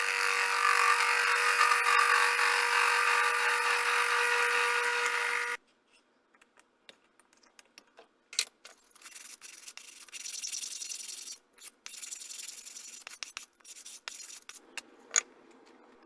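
A small machine-shop motor runs steadily with a constant hum, then stops abruptly about five seconds in. Short, irregular scraping strokes on metal follow.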